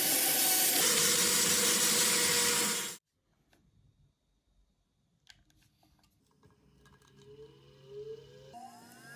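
A power tool runs steadily at work on the tool's parts, then cuts off abruptly about three seconds in. After a few seconds of near quiet with faint clicks, a motor's whine rises in pitch near the end.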